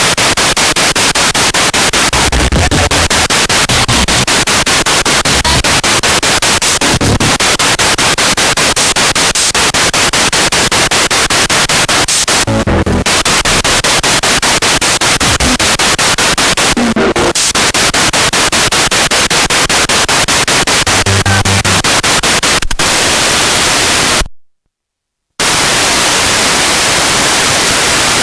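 Spirit box radio sweeping through stations: loud hiss of static chopped into rapid, even pulses, with brief snatches of broadcast sound breaking through. The static cuts out for about a second near the end.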